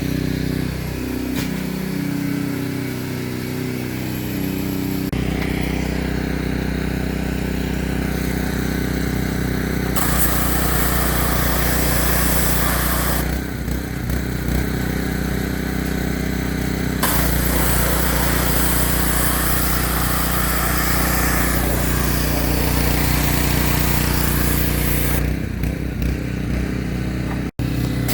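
Gas-engine pressure washer running steadily, with the hiss of the high-pressure spray coming and going, strongest about ten seconds in and again from about seventeen to twenty-five seconds.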